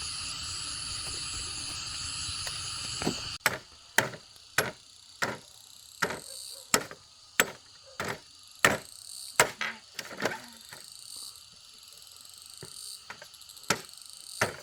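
Insects chirring steadily, then, after an abrupt change about three seconds in, a run of sharp blows on bamboo, about two a second, from a hand tool chopping or hammering. After a pause, two more blows come near the end.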